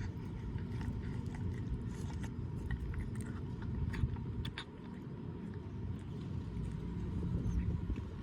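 Cat chewing a pork rib: scattered sharp crunching clicks of teeth on meat and bone, over a steady low rumble of traffic.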